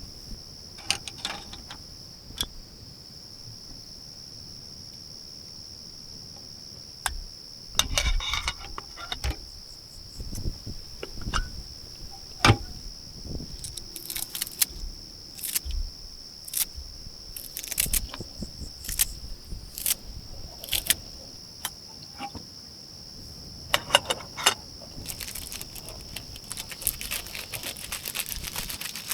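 Repeated metal clinks and rattles from camp cookware being handled, in short bursts, over a steady high-pitched chorus of crickets.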